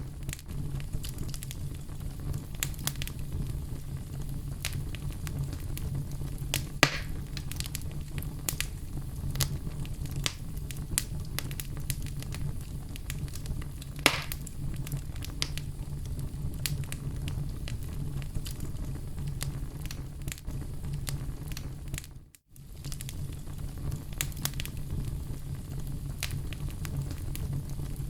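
Oak wood fire burning in a fireplace: a steady low rumble under frequent small crackles, with two louder pops about seven and fourteen seconds in. The sound drops out for a split moment about three-quarters of the way through.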